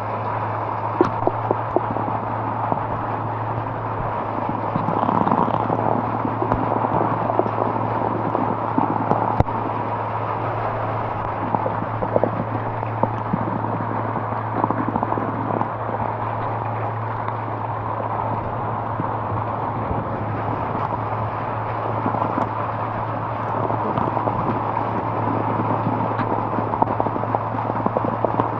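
Rain pattering close to the microphone: a dense, steady crackle of drops with many small sharp ticks, over a constant low hum.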